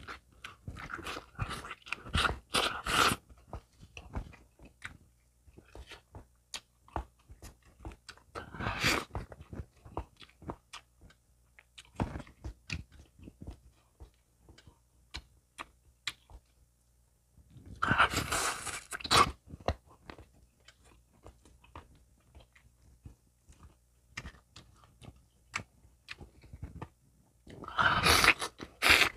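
Close-up mukbang eating of chicken: chewing and crunching with many small wet clicks, and a few louder bursts of crunching spread through.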